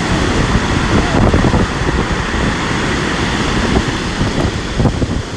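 Strong storm wind buffeting the microphone, over the steady noise of a rough sea breaking on the shore.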